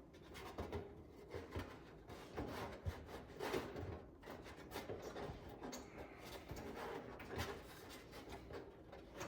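Light, irregular knocks, clicks and rubbing of hands working hardware into a tight spot behind a car's front spoiler.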